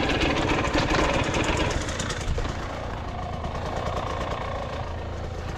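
Dirt bike engine running: it is louder for the first couple of seconds, then settles lower and steadier, near idle.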